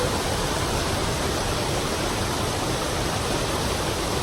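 Steady rush of Yosemite Falls' water pounding down close by, an even, unbroken roar of falling water.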